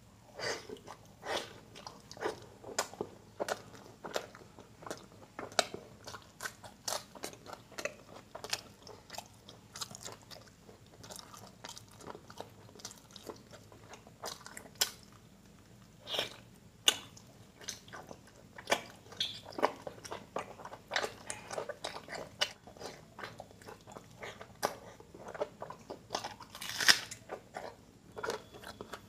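Close-miked chewing and wet mouth sounds of a man eating paratha with paneer butter masala and curried mutton fat by hand: irregular smacks and clicks, with a few louder ones.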